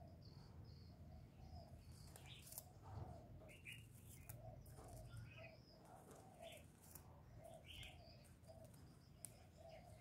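Near silence, with faint bird chirps scattered through it and a faint row of short, low repeated notes.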